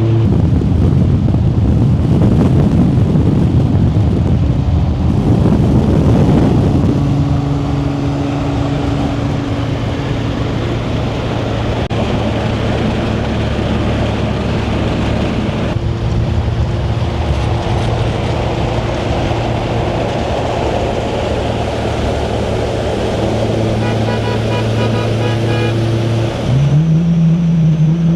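Car on the move: a steady engine drone under road and wind noise, its pitch shifting slightly as speed changes, with a brief rise in engine pitch near the end.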